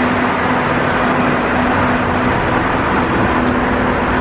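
Car on the move: steady road and engine noise with a faint, steady low hum.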